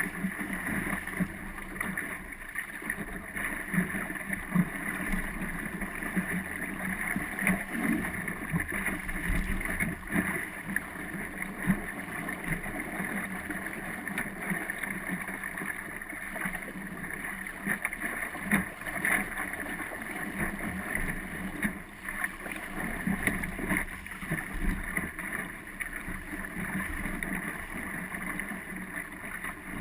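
Water rushing and slapping against the hull of an Optimist sailing dinghy under way, with many small irregular splashes and knocks, and wind buffeting the microphone.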